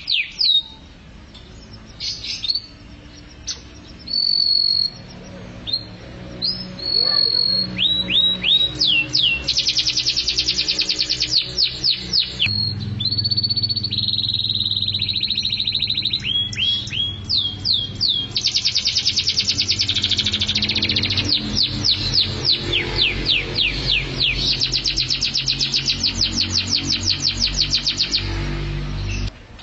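Domestic canary singing: long fast trills of rapidly repeated down-sweeping notes, broken by short pauses and a few held whistled notes.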